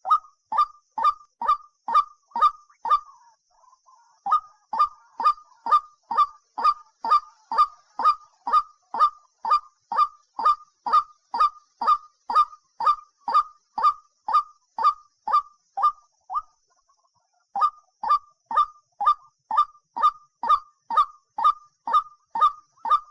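A bird giving loud, honking calls over and over, about two a second, each a short note that drops in pitch, with two brief pauses.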